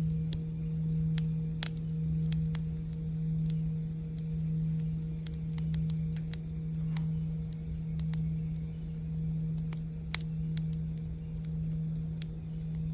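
A singing bowl holding a low, steady ringing tone that swells and fades slowly, about once a second, with a campfire crackling over it in scattered sharp pops.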